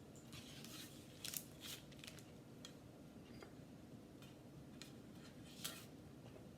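Faint, scattered light clicks and short scrapes of a spatula working small frozen yogurt drops into a bowl, over near-silent room tone.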